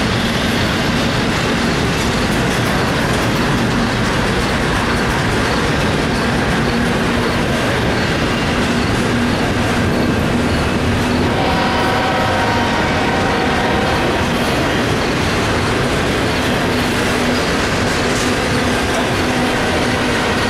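Double-stack intermodal freight cars rolling past: a steady clatter and rumble of steel wheels on the rails. Partway through, a high squeal from the wheels joins in.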